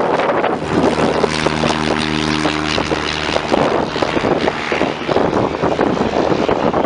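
Propeller airplane engine drone, a steady pitched hum that comes in about a second in and fades out about halfway through, under heavy wind buffeting the microphone.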